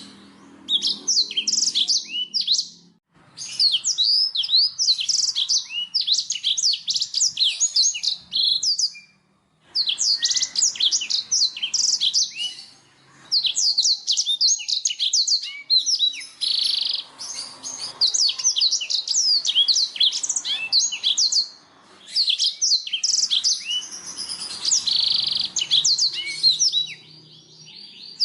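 Black-throated canary (blackthroat) singing: long, rapid runs of high chirps and trills, broken by short pauses every few seconds.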